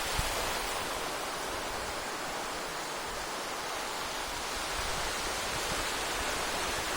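Sea surf washing ashore: a steady, even rushing hiss of breaking waves.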